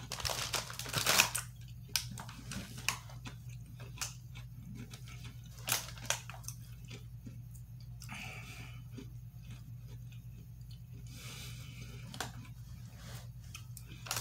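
A person chewing crunchy Oreo sandwich cookies, with soft crunches and a few sharp clicks in the first couple of seconds and again around the middle.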